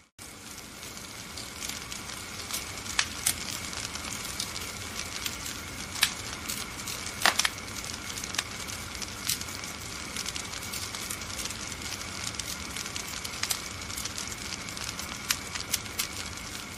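Wood fire crackling, with a steady hiss and irregular sharp pops scattered throughout, one of the loudest about seven seconds in. The sound drops out for an instant at the very start.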